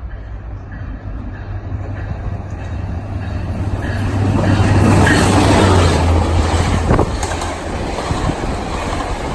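Caltrain MP36PH-3C diesel locomotive passing, its engine a steady low drone that grows louder to a peak about halfway through and then eases off, with rail and wheel noise and a sharp click near the end.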